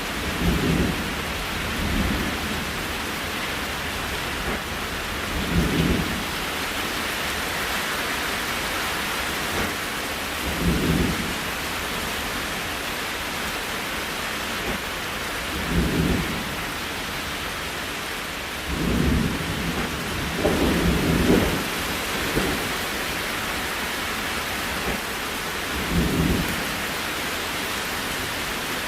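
Steady rain hiss, with short low rumbles recurring every few seconds, a longer one a little past two-thirds of the way through.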